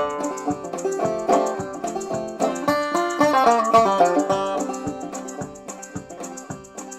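Clawhammer banjo playing an old-time Appalachian tune, a quick steady run of plucked notes that grows quieter over the last couple of seconds.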